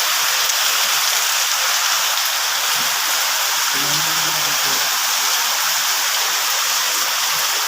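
Rain falling steadily, a dense even hiss with no let-up. A faint voice is heard briefly about four seconds in.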